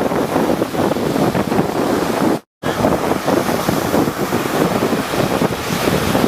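Rough sea waves surging and breaking with constant wind buffeting the microphone. The sound cuts out completely for a split second about two and a half seconds in.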